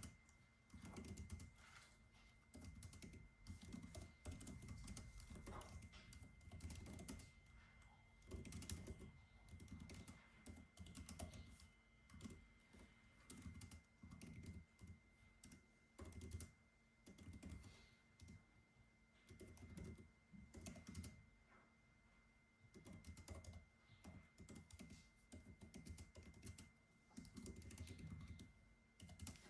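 Soft typing on a computer keyboard: quick runs of key clicks broken by short pauses.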